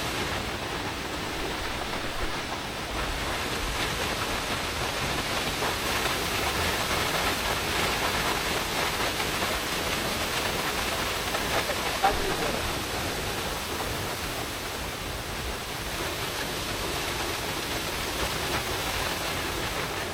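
Steady rushing noise, with a single sharp click about twelve seconds in.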